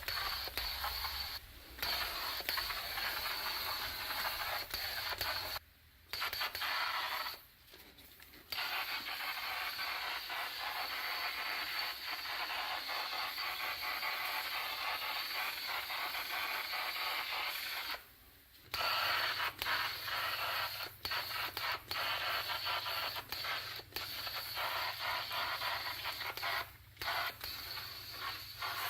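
Steady hand scraping or abrading on the rusty pressed-steel body of an old toy truck, coming in several long stretches with short breaks between them.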